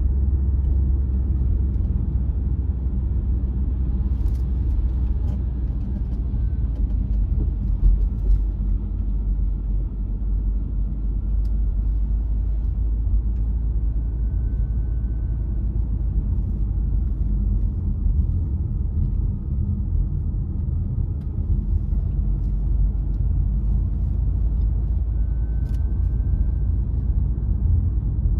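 A car driving steadily on a road: a constant low rumble of engine and tyre noise, with a faint high whine drifting in and out and a few small clicks.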